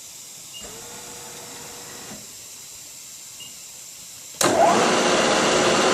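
CNC milling machine starting its drilling cycle on a steel plate: a low machine hum with a brief steady tone, then, a little over four seconds in, a sudden loud steady rushing noise as the machine comes up to full running.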